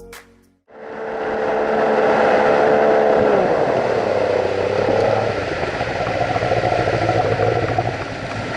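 Outboard boat motor running loudly at speed, its pitch dropping about three and a half seconds in as it throttles back or passes by.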